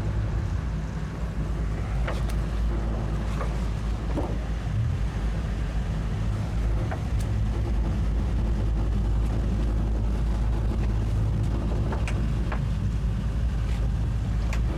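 Towboat's 200 hp Suzuki outboard motors running steadily under way, with a low rumble and water noise along the hull, and a few faint knocks.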